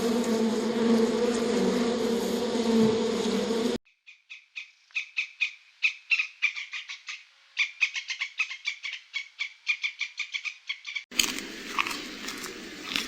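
A steady insect buzz that cuts off abruptly, followed by a rapid series of short, high chirps, several a second, from a small animal. About two seconds before the end, another abrupt change to a noisier mixed outdoor sound.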